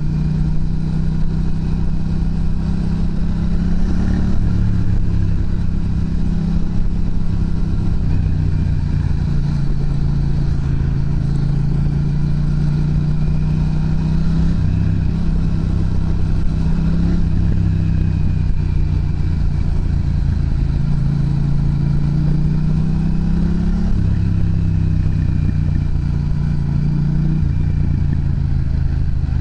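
Yamaha MT-07's parallel-twin engine running through an aftermarket Pranas muffler, its exhaust note steady and loud with the engine speed rising and falling gently, most noticeably around four seconds in and again in the last few seconds.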